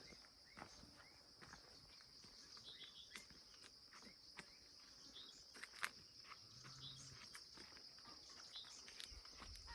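Faint, steady high-pitched trill of insects, with scattered short bird chirps and light clicks over it.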